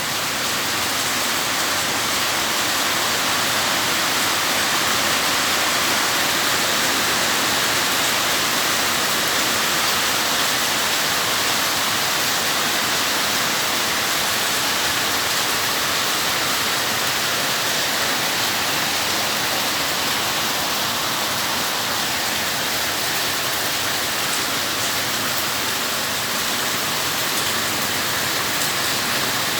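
Steady heavy rain falling, a dense, even hiss that holds at the same level throughout.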